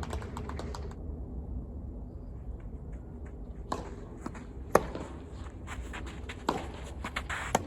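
Four sharp knocks of a tennis ball, racket strikes and court bounces, about one to two seconds apart during play. The loudest comes near the middle, over a steady low background noise.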